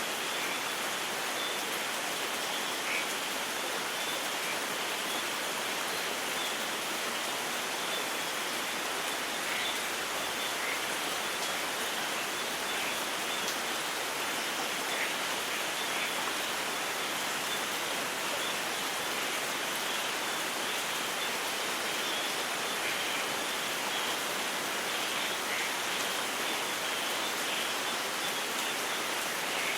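Steady rain falling: an even, unbroken hiss with scattered small droplet splashes and no thunder.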